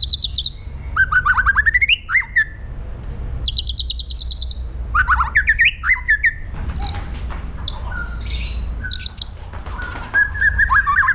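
White-rumped shama singing a varied song: fast rattling trills, runs of sweeping whistled notes and scattered high whistles, over a steady low hum.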